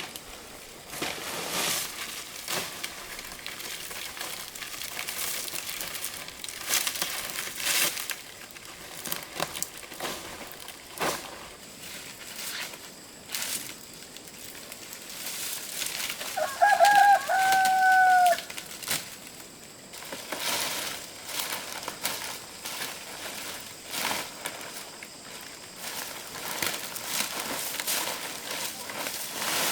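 A rooster crows once, a single call of about two seconds a little past the middle. Short rustling and crackling noises come and go throughout.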